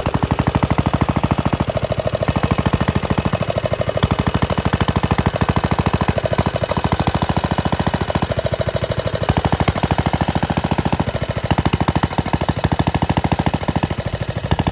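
Bernard Moteurs W10 stationary engine running steadily, with an even, rapid exhaust beat of about ten sharp pulses a second.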